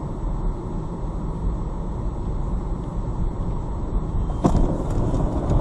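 Steady low rumble of a car driving on the road, with a single sharp knock about four and a half seconds in.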